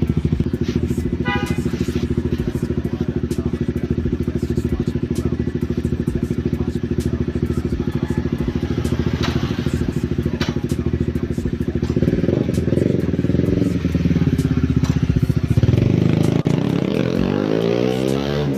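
Motorcycle engine through a Yoshimura aftermarket exhaust, idling steadily, then revved from about twelve seconds in, with the engine pitch rising and falling and climbing again near the end.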